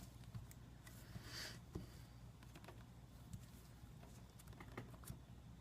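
Near silence: a low hum with a few faint, scattered clicks and taps from the iPad being handled and tested.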